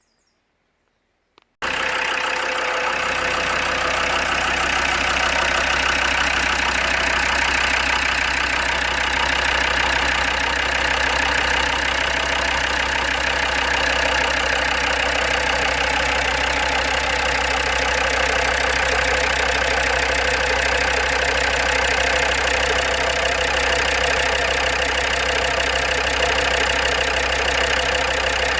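Land Rover Defender TD5's five-cylinder turbodiesel idling steadily, cutting in suddenly from near silence about a second and a half in. It carries the tick and tapping sound whose cause the owner has not found, with good oil pressure and the hydraulic lifters holding pressure.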